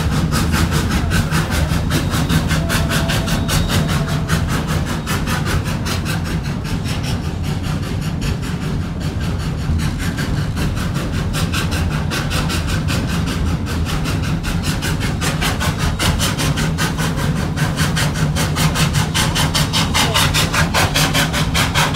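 Narrow-gauge 1926 Baldwin 2-8-0 steam locomotive hauling a heavy train upgrade, its exhaust beating in a rapid, even rhythm over a steady rumble of the rolling train.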